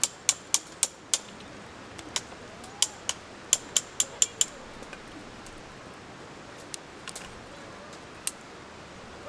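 A series of sharp taps or knocks, in quick runs of about three to four a second through the first half, then only a few scattered ones.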